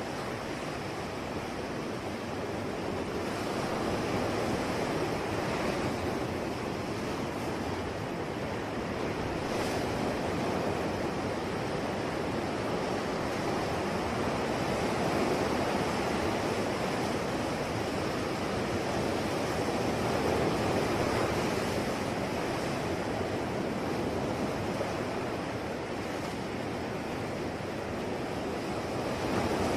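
Ocean surf: waves breaking and washing on the shore in a continuous rush that swells and eases every few seconds.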